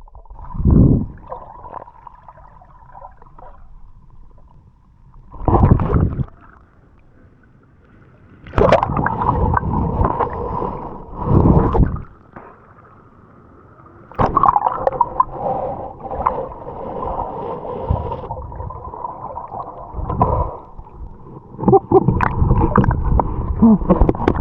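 Water gurgling and sloshing close to the microphone in several loud surges, the longest filling most of the second half, with a faint steady hum beneath.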